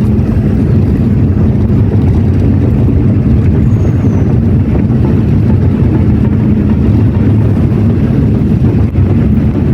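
Vehicle engine running steadily while on the move, with loud, constant road and wind noise.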